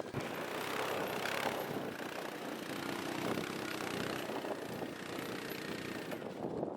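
An engine running steadily, with a faint steady hum under a broad noisy wash.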